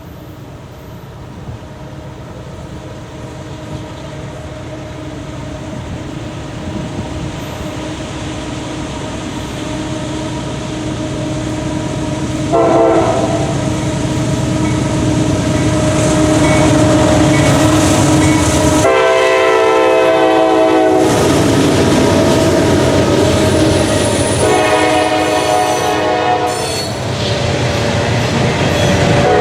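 CSX GE CW44AC diesel locomotives leading a coal train closing in, their engines and the wheel noise steadily growing louder. The locomotive horn sounds three times: a short blast about twelve seconds in, a longer one about two-thirds of the way through, and another a few seconds before the end.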